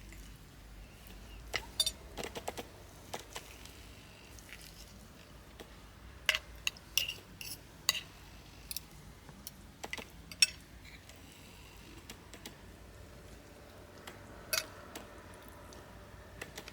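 Scattered light clinks and taps of cutlery and dishes, about a dozen at irregular times, some with a brief ring, the sharpest about ten seconds in.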